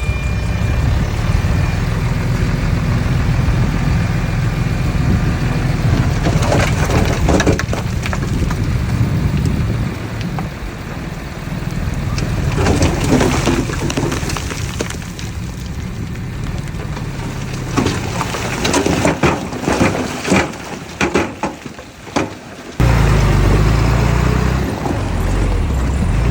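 Diesel earthmoving machinery running under load, a steady low engine rumble with repeated crunching and crackling of soil and stones being pushed and broken. Near the end the engine sound abruptly becomes louder and heavier.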